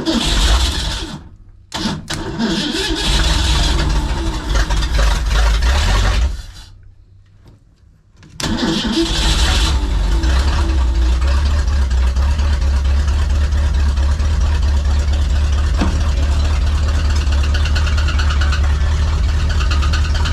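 Swapped-in V8 engine in a 1964 Ford Econoline van starts and runs for a few seconds, then dies about six seconds in. It is restarted about eight seconds in and settles into a steady idle.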